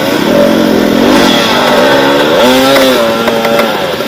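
Off-road motorcycle engine running under load, its revs rising and falling repeatedly as the throttle is worked.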